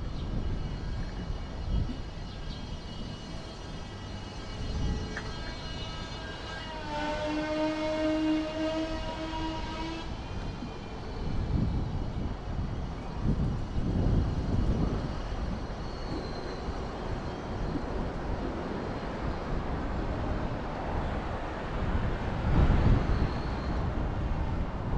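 City traffic rumble heard from a moving bicycle. A strong, steady pitched tone sounds for about three seconds partway through, and louder swells of passing-vehicle noise come later.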